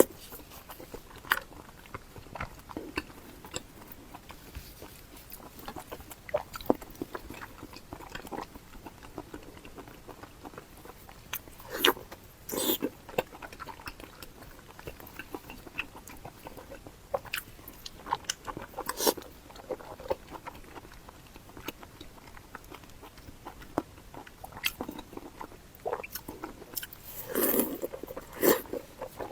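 Close-miked eating sounds: a person biting and chewing food, with scattered wet mouth clicks and smacks and a few louder bites spread through.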